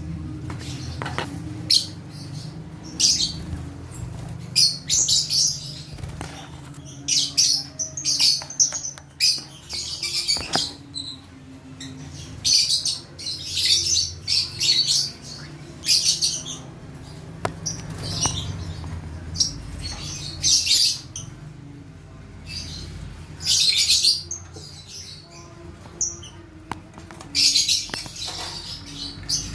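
Lovebirds calling: repeated short, shrill, scratchy chirps coming irregularly, several a second in clusters.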